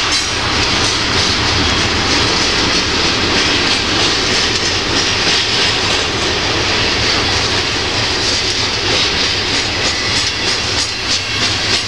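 Freight train's tank cars and covered hopper cars rolling past, steel wheels running on the rails with a steady hiss and low rumble. Clicks of wheels over rail joints become more distinct in the last few seconds.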